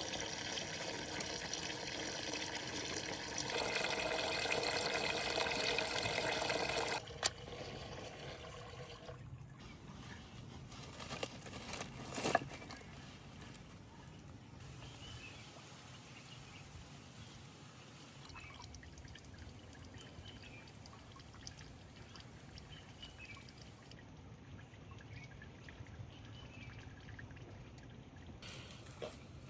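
Water being poured into a container for about seven seconds. Its pitch shifts partway through as the vessel fills, and it cuts off suddenly. A few knocks follow, then faint bird chirps.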